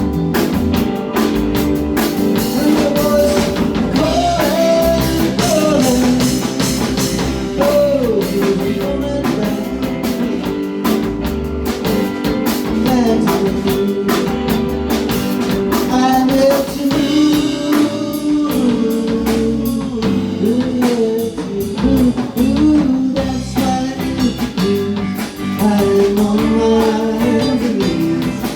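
A rock band playing live: a guitar lead with bent, gliding notes over a drum kit and rhythm parts.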